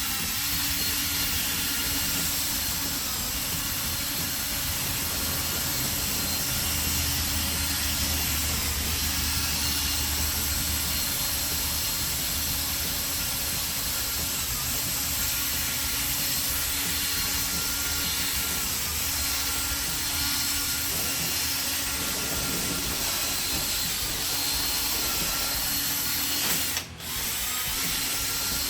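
Cordless drill spinning a P500 sanding disc on a pad holder, dry-sanding a plastic headlight lens: a steady motor whine over a sanding hiss. It cuts out briefly near the end.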